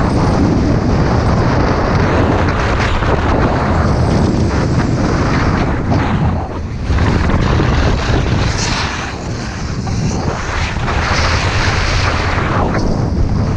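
Loud wind buffeting the microphone while skiing down a run, a dense rushing noise that surges and eases, dipping briefly twice.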